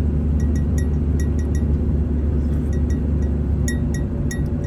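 Steady low rumble of a car driving, heard inside the cabin, with light irregular clinks from something loose rattling.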